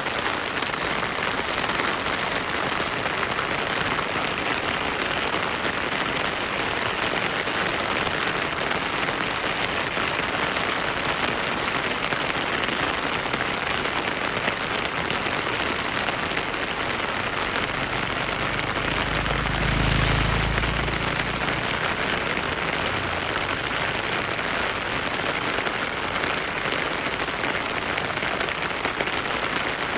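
Heavy rain falling steadily on a forest, an even hiss of drops. About two-thirds of the way through, a low rumble swells for a few seconds and fades.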